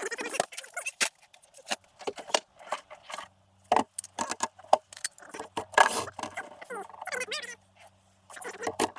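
Irregular clinks, knocks and short scrapes of hand tools and small metal parts being handled, with a faint steady hum underneath.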